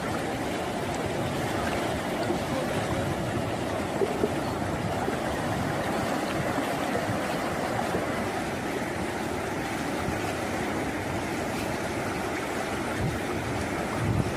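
Steady rushing of river water flowing fast, with a couple of faint clicks about four seconds in.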